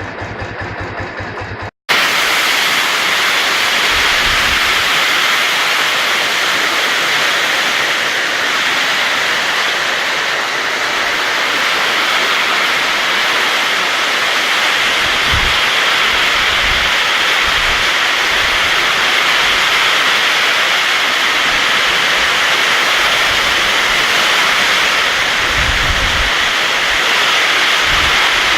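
Heavy downpour: a loud, steady rush of rain, with a few short low thuds.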